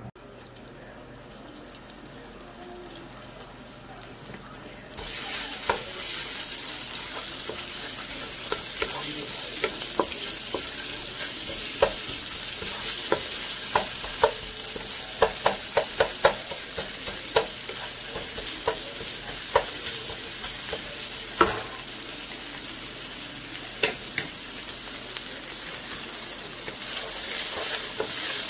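Minced ginger and garlic sizzling in hot oil, the sizzle starting suddenly and loudly about five seconds in. A wooden spatula stirs them and knocks against the pan many times, most busily in the middle stretch.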